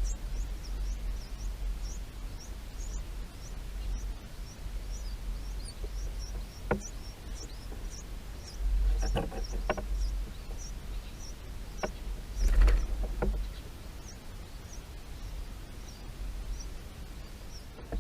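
A small bird giving short, high, thin chirps over and over, about two a second, over a low wind-like rumble, with a few brief knocks and rustles partway through.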